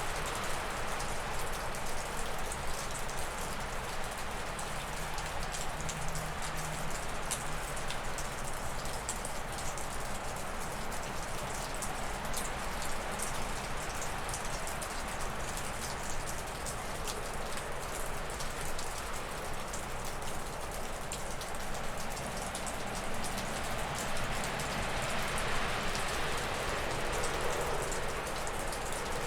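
Wind gusting through spruce and birch trees, a rushing that swells and eases and is strongest near the end, with meltwater dripping off a roof in many small ticks.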